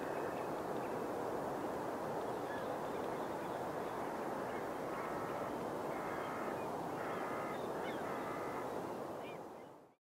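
Distant wild birds calling over a steady rush of outdoor background noise, with four short honking calls about a second apart in the second half. The sound fades out at the end.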